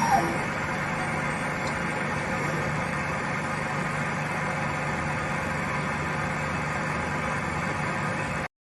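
Kunzmann WF 4/3 milling machine running with a steady mechanical hum of several fixed tones, with a brief higher-pitched sound right at the start. The sound cuts off abruptly near the end.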